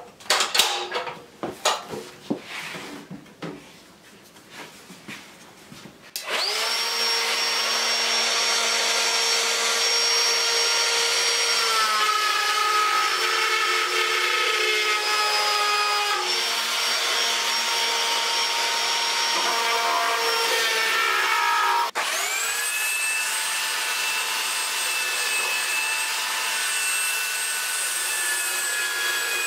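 A few handling knocks and clicks, then about six seconds in an electric router starts with a steady high whine. Its pitch shifts a few times as a roundover bit cuts into a wooden handle. Near the end it breaks off briefly and runs on.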